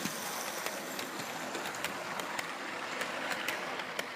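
Hornby model train running along the track past the camera: a steady running rumble from the small motor and wheels with frequent sharp clicks of wheels over rail joints.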